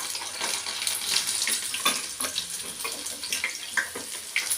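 Crushed garlic and curry leaves frying in hot oil: a steady sizzle with many small crackles and pops.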